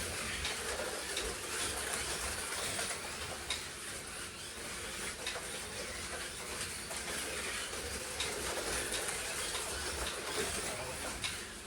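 Slot cars running round the track: a steady whirring hiss of small electric motors and tyres on the track, with occasional sharp clicks.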